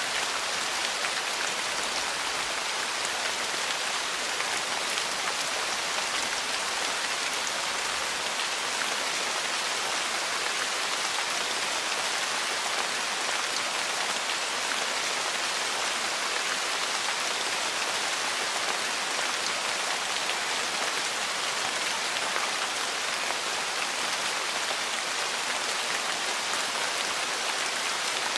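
Steady, heavy rain falling on a surface: a dense, even hiss with no breaks.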